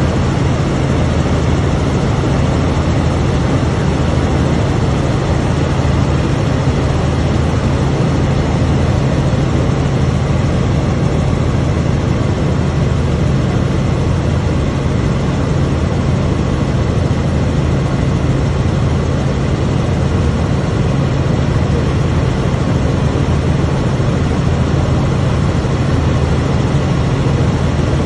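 Helicopter in flight: a loud, steady drone of engine and rotor with a strong low hum under a wide hiss, unchanging throughout.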